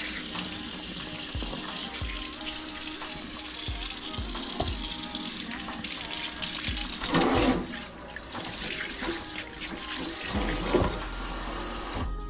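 Tap water running steadily into a sink while fish are rinsed and cleaned, with scattered soft knocks of handling.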